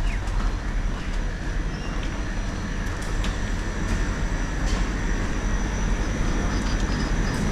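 Steady low rumble with a hiss of outdoor background noise, and a faint, high, steady tone running through it.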